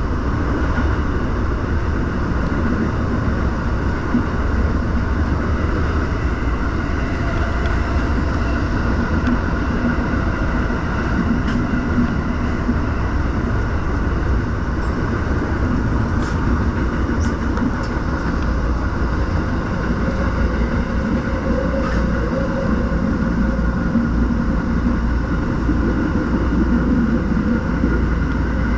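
Tokyo Metro Marunouchi Line train running, heard from inside the car: a steady rumble of wheels on rail with a constant hum, and a few faint clicks past the middle.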